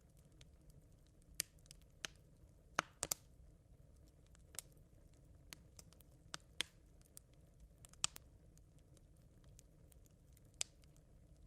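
Smouldering campfire embers crackling: sparse, irregular sharp pops and ticks, a couple close together around three seconds in and again around eight seconds, over a low steady rumble.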